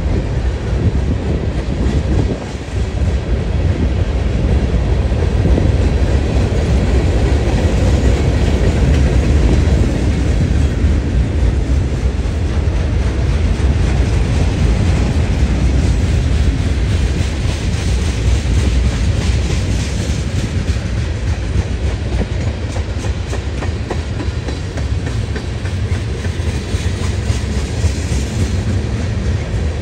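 Freight cars (tank cars, boxcars and covered hoppers) of a CSX freight train rolling past: a steady low rumble of steel wheels on rail, with regular clicking as the wheels cross rail joints.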